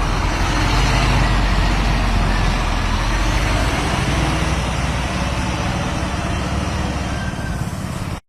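Scania bus running on the road: a steady low engine hum with road and tyre noise. It eases slightly about halfway through.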